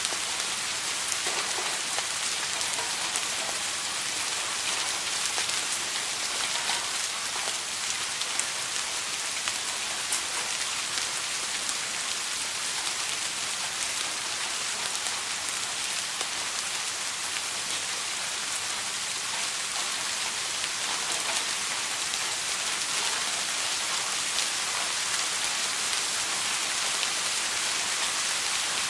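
Steady rain falling, a dense even hiss of many small drops landing on a surface, with no thunder.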